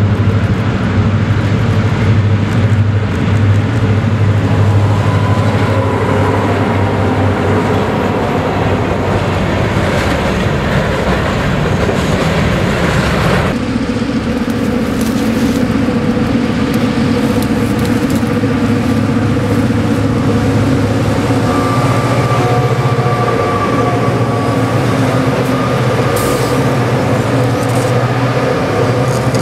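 EMD diesel freight locomotives with 16-cylinder 645 engines working under load. First one approaches with a steady low engine drone. About halfway through the sound changes abruptly to a second locomotive passing close, its wheels clicking over the rail joints as the freight cars roll by.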